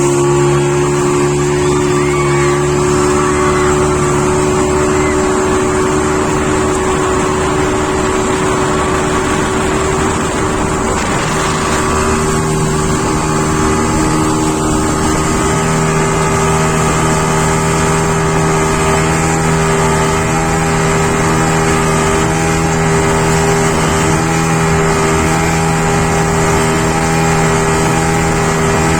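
Motorboat engine running steadily under load, with rushing wind and water noise; the engine note shifts slightly about halfway through. This is the kind of speedboat that tows a banana boat.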